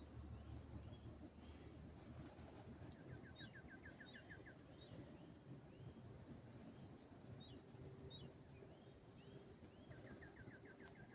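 Faint birdsong: scattered short chirps, with a rapid trill of quick notes about three seconds in and again near the end, and a higher, shorter trill in the middle, over a low, steady background rumble.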